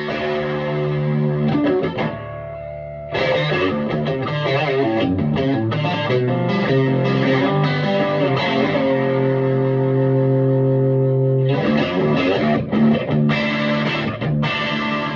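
Electric guitar played through a Vintage Sound Amp valve amplifier: struck chords and short riffs left to ring. The playing drops quieter for about a second, two seconds in, then comes back fuller.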